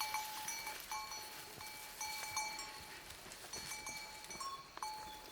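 Bell hung on grazing livestock clanking irregularly as the animal moves: a string of short struck notes, with now and then a second, slightly higher-pitched note.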